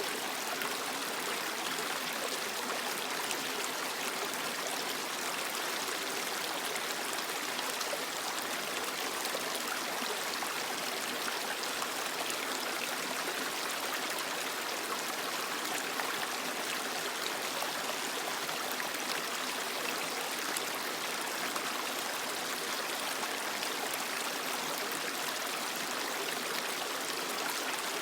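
Creek water flowing and splashing over rocks: a steady, even rush.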